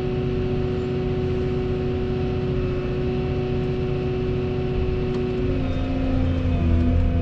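Volvo 235EL excavator's diesel engine and hydraulics running steadily, with a steady whine over the engine drone. About five and a half seconds in the tones shift and the sound grows a little louder, as the machine takes on hydraulic load.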